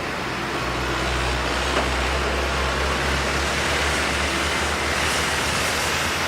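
Jet engine noise from a Boeing 777-200 at the runway: a loud, steady roar with a deep rumble that grows slightly stronger about half a second in.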